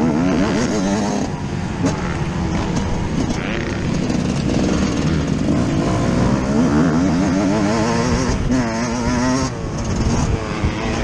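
Yamaha YZ125's single-cylinder two-stroke engine, heard from a microphone on the bike, revving hard with its pitch climbing and dropping several times as the throttle is worked through the gears.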